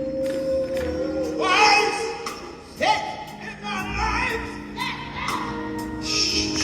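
Live gospel music: a lead singer sliding through long, wavering vocal runs over a band's sustained chords, with steady cymbal strokes and a few low drum thumps.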